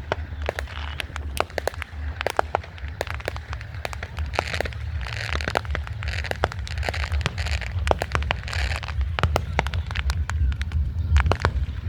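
Fireworks going off, many sharp bangs and crackling pops in quick, irregular succession over a steady low rumble.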